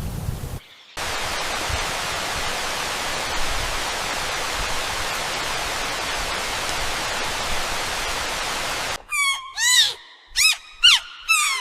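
Steady hiss of heavy rain, then near the end a kitten mewing five times in quick, high, arching calls.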